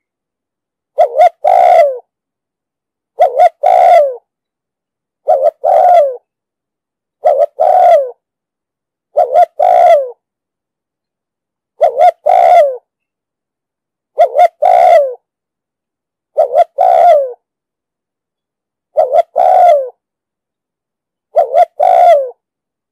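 Spotted dove cooing: a repeated phrase of short notes ending in a longer falling coo, about ten times, one every two seconds or so, with silence between.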